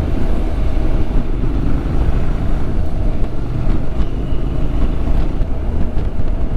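Motorcycle riding along the road: a steady deep rumble of engine and wind noise.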